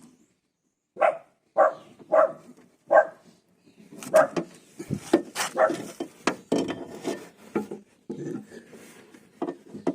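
A dog barks four times, about two-thirds of a second apart. From about four seconds in there is a dense clatter of sharp clicks and knocks as parts are handled and fitted inside a car door.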